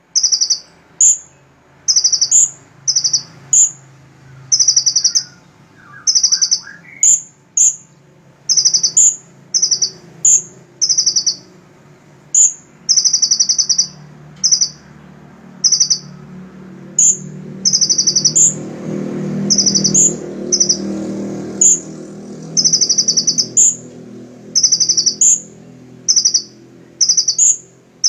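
Purple-throated sunbird (kolibri ninja) singing a repeated phrase, about once a second: a short buzzy trill followed by a sharp, very high note. A low rumble rises in the background around the middle.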